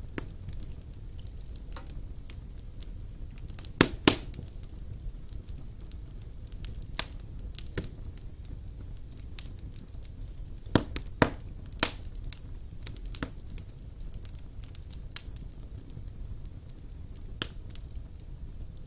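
Wood fire burning in a fireplace: a steady low rumble of flames with scattered crackles and a few loud sharp pops, two together about four seconds in and three more around eleven to twelve seconds.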